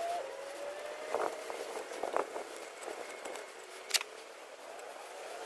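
A distant vehicle engine pulling away, its pitch climbing, dropping at a gear change just after the start, then climbing again. A few light clicks, with a sharper click about four seconds in.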